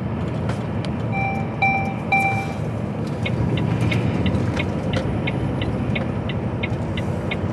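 Steady engine and road rumble in an HGV cab. About a second in come three short electronic beeps, and then the ticking of the turn indicator, about three clicks a second.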